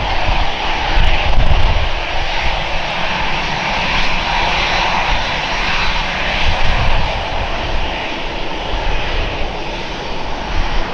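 Airliner's engines running loud and steady, a dense rushing noise with a low rumble.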